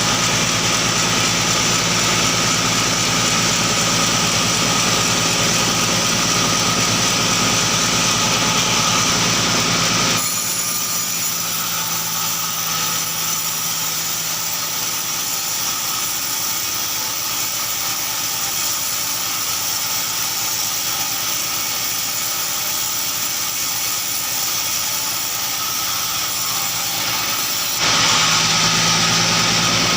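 Sawmill machinery running steadily under an engine drone. It drops abruptly to a quieter sound about ten seconds in and comes back just as abruptly near the end.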